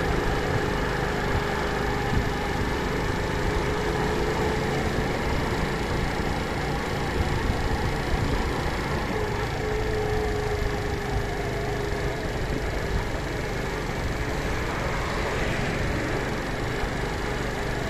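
A steady engine-like hum with low rumble and a faint unchanging whine.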